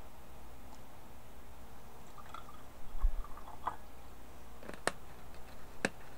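Faint drip-like blips and sharp clicks over a steady low hum, with a low thump about three seconds in and two louder clicks near the end. The streamer presents this as the sound of magma moving under Yellowstone.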